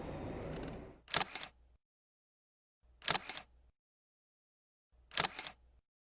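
Camera shutter firing three times about two seconds apart, each release a quick double click, with dead silence between. Steady street noise fades out about a second in, before the first click.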